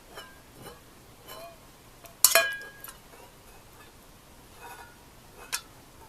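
A sharp clink with a brief metallic or glassy ring about two seconds in, among light taps and clicks of tableware, with another small clink near the end.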